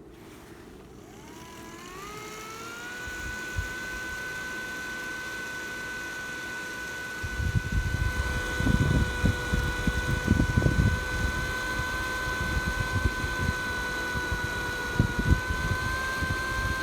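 A motor-driven blower spins up to a steady whine over the first few seconds. From about seven seconds in, rushing air buffets the microphone in uneven low gusts over the whine.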